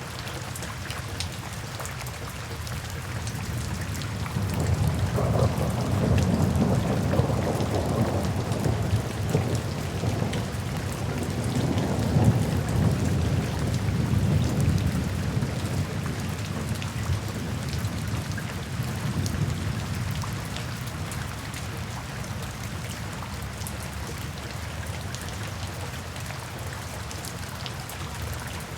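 Steady rain falling, with a long roll of thunder coming in about four seconds in, swelling twice and fading out over some fifteen seconds.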